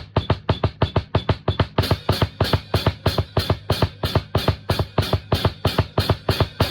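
Drum kit played in a steady, fast rhythm, bass drum and snare strikes at about six a second, with the top end growing brighter about two seconds in.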